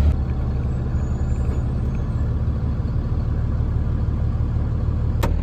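Box truck's engine and road noise heard from the cab: a steady low rumble. A single sharp click comes about five seconds in.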